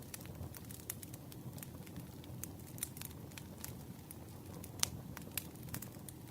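Campfire burning with a low rumble and irregular crackles and pops, the loudest pop about five seconds in.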